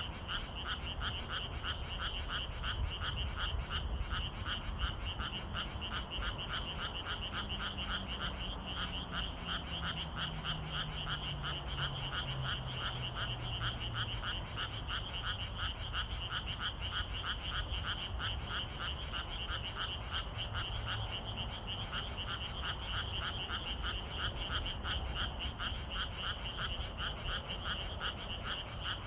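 Dense evening chorus of many frogs croaking in rapid, overlapping pulses, steady throughout. A faint low hum slowly falls in pitch in the middle.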